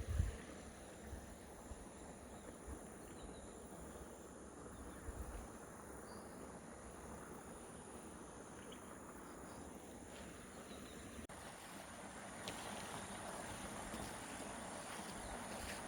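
Faint outdoor nature ambience: a steady high insect drone over a soft hiss, which grows slightly louder about twelve seconds in.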